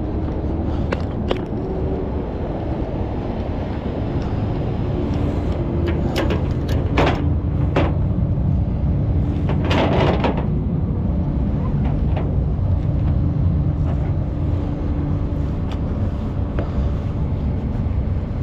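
Tow truck engine running steadily, with a few short knocks and rattles about six and ten seconds in.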